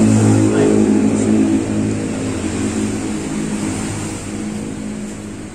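A motor vehicle's engine running with a steady hum that fades away over the last few seconds.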